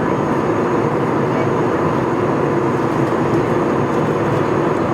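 Steady cabin noise of an airliner in flight, the even rush of engines and airflow heard from a seat inside the cabin.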